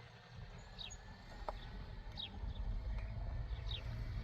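A bird chirping: three short, high notes sliding downward, about one and a half seconds apart. Under them runs a low rumble that grows louder about halfway through.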